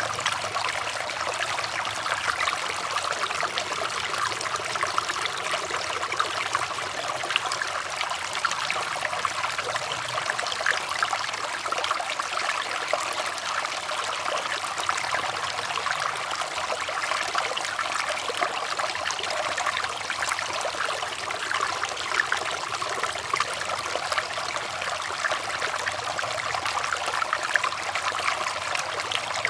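Running water in a small stream, trickling and babbling steadily.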